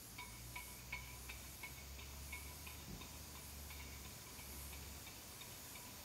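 A bird calling in a string of short, repeated notes, about three a second, faint against a low steady hum.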